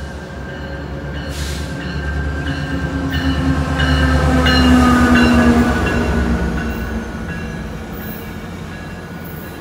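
Metrolink diesel locomotive running past at close range. Its engine hum grows louder to a peak about halfway through and drops slightly in pitch as it goes by, then the double-deck passenger cars roll past.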